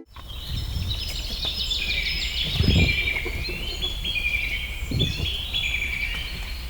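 A chorus of birds chirping and trilling, many calls overlapping without pause, over a low background rumble with two dull thumps about two and a half and five seconds in.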